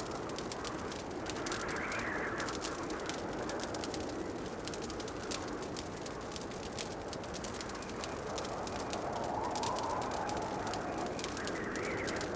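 Wood fire crackling with many small snaps and pops over a steady rushing that swells softly a few times.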